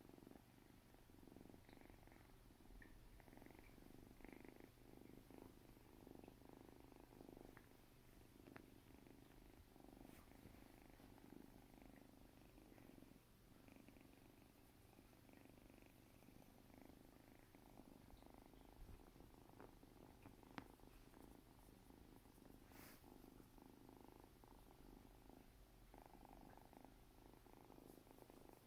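Kitten purring, faint and steady, with one sharp click about twenty seconds in.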